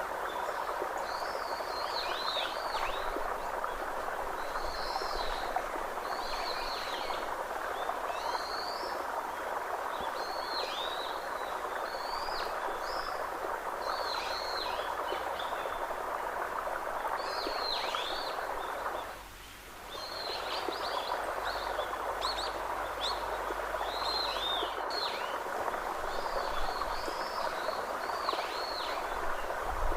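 Nature ambience: short, high chirping calls repeat every second or so over a steady, dense background chorus. The background drops away briefly about two-thirds of the way through.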